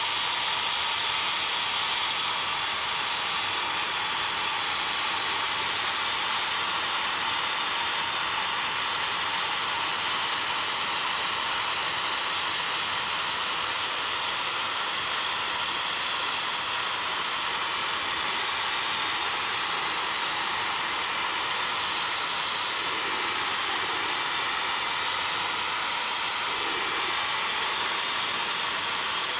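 Suction fan of an H0-scale model railway track-vacuum car running with a steady high hiss.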